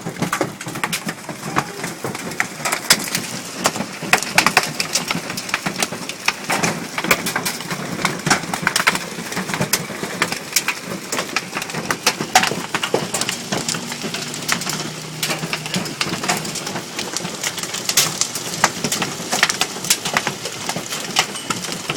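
Large hailstones pelting down in a dense, irregular clatter of sharp impacts that keeps up without a break.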